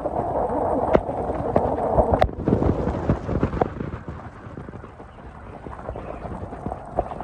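Car driving on a snowy mountain road: a steady rumble with scattered knocks and clatters, loudest in the first couple of seconds and easing a little about four seconds in.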